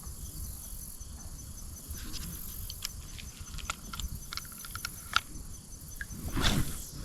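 Crickets and other insects chirping steadily, with a faint low rumble underneath. Scattered small clicks and ticks come through the middle, and a brief whoosh sounds near the end.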